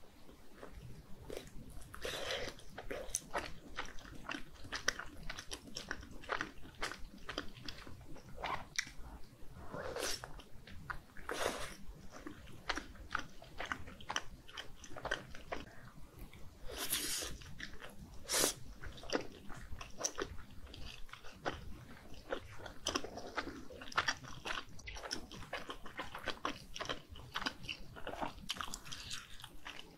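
A person chewing and biting soft, saucy fish cake skewers close to the microphone: irregular wet chewing with many small clicks and smacks, and a couple of sharper bites about two-thirds of the way through.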